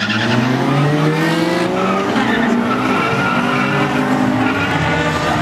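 Car engine under hard acceleration off a drag-strip launch, its pitch rising steadily for about two seconds as it pulls away. After that, engines run at a steadier pitch.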